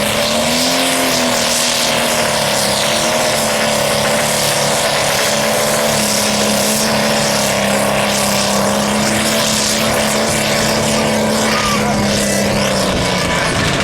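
Light limited super stock pulling tractor's engine running hard under load through a pull, a loud steady drone held at nearly one pitch. It rises slightly about a second in and drops away near the end as the pull finishes.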